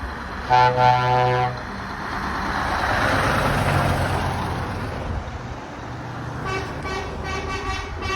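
A lorry's horn blasts once for about a second, then a truck passes with its engine and road noise rising and falling. Near the end a horn sounds in a fast run of short toots.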